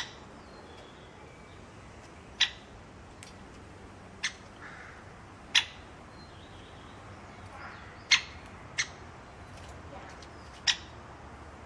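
Bird giving short, sharp single calls, about seven of them spaced a second or two apart, over a faint steady hiss.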